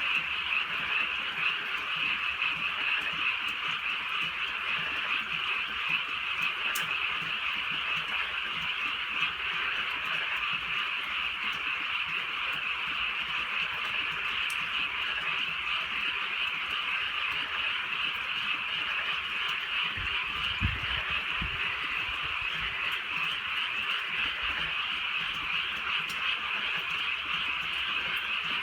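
A dense, steady chorus of many frogs calling together, with a brief low thumping about twenty seconds in.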